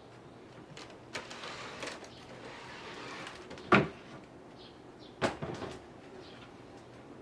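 Household handling sounds: a few separate knocks and clacks, the loudest about halfway through, with soft rustling between the first ones.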